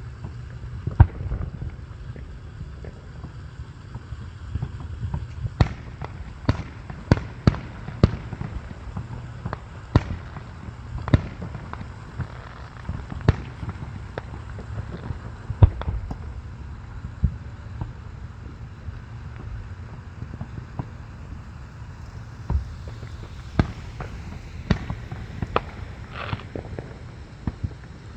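Fireworks exploding in an irregular string of sharp bangs, the loudest about a second in, over a steady low rumble.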